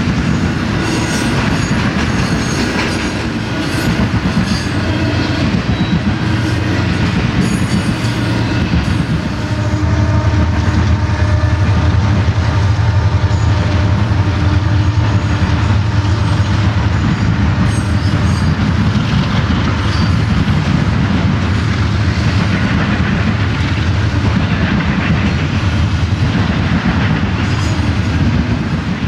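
Union Pacific double-stack intermodal freight train rolling past, a steady rumble of railcars. It grows louder and deeper about nine seconds in.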